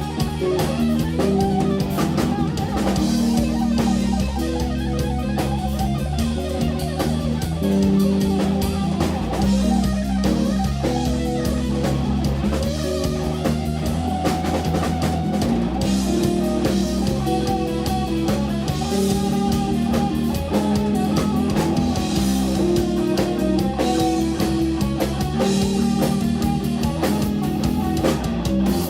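Live rock band playing: electric guitar, bass guitar and drum kit in a continuous instrumental passage.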